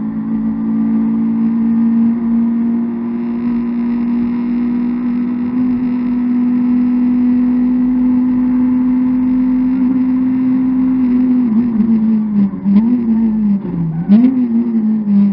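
Opel Corsa rally car's engine heard from inside the cabin, held at high revs with the pitch creeping slowly upward along a straight. About eleven seconds in the revs drop and rise several times, with a few sharp clicks, and fall away near the end as the car slows.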